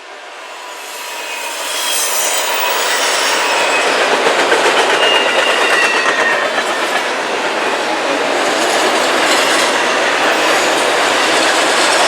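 Train passing close by on steel rails, growing louder over the first couple of seconds and then holding a steady, loud rumble and clatter of wheels. A few thin, high wheel squeals come in near the middle.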